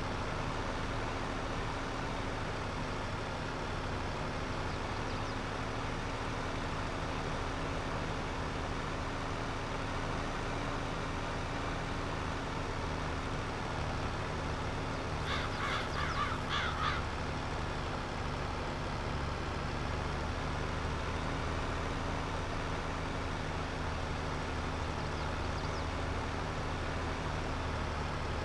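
Tractor engine running steadily while plowing. About fifteen seconds in, a bird calls in a quick run of five or six notes lasting under two seconds.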